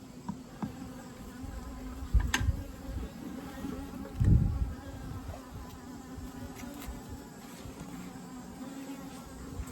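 Honeybee colony buzzing steadily around an open hive during a frame inspection. Two low thumps come at about two seconds and four seconds in.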